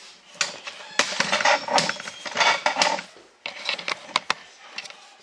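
Workbench handling noise: a string of sharp clicks, knocks and short scrapes as a wooden stick and tools are picked up, moved and set down.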